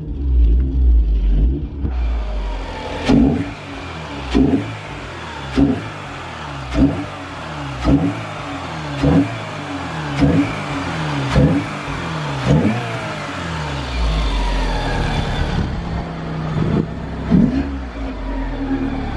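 Alfa Romeo 146 ti's 2.0 Twin Spark four-cylinder engine idling, then revved in short, evenly spaced throttle blips about once a second, each rise falling quickly back. Near the end it settles back to a steady idle.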